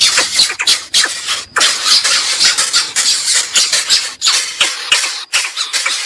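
Loud, dense run of harsh, squeaky bird calls in quick strokes, broken by short pauses every second or so.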